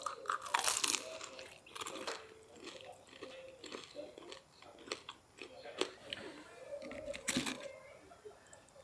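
A person biting into and chewing crunchy food close to the microphone, with irregular loud crunches.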